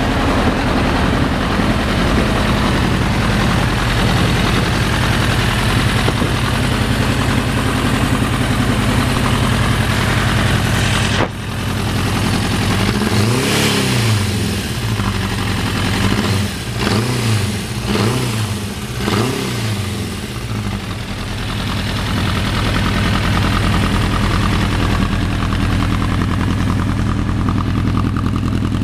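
1993 Suzuki GSX-R 750's inline-four engine idling steadily, then blipped through about five quick revs that rise and fall in the middle, before settling back to idle.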